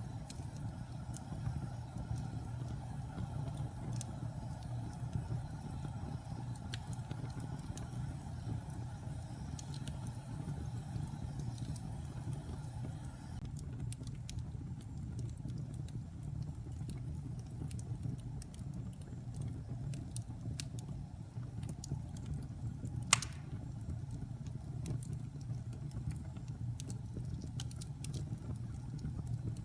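Wood fire burning in a fireplace: a steady low rumble of the flames with scattered small crackles and one sharper pop about three-quarters of the way through.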